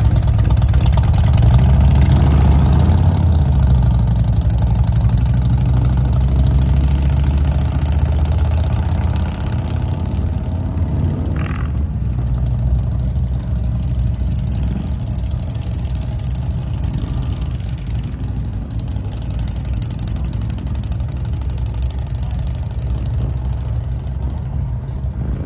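Motorcycle engine running steadily, louder for the first ten seconds or so, then settling to a lower, steadier level.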